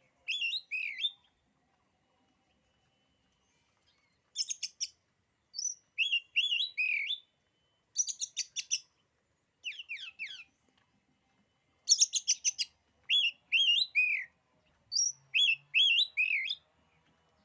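Oriental magpie-robin (kacer) singing in short phrases of rapid clicking notes and quick down-slurred whistles, about seven phrases with pauses of a second or so between them.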